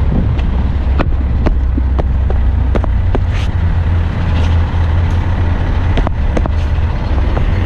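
Eight-wheeler dump truck's diesel engine running steadily as a low hum while driving, with frequent sharp knocks and rattles.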